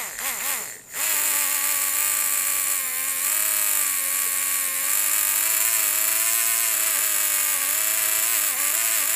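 Savox 236 RC servo's electric motor and gear train whining as it runs: a quick warbling up and down in pitch in the first second, then a steady whine with slight pitch drifts and a short wobble near the end.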